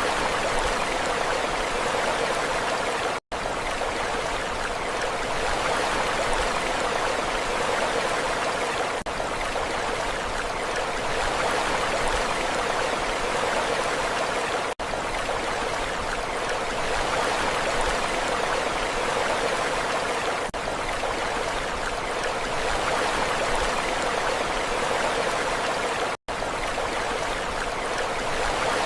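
Continuous rushing water, a steady, even wash with no rise and fall of separate waves, sold as the sound of the sea. It cuts out for an instant twice, about three seconds in and near the end, like joins in a looped recording.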